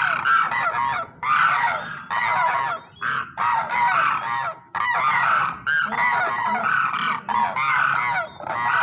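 A group of cranes calling together, many trumpeting calls overlapping in bursts of about a second with short pauses between them.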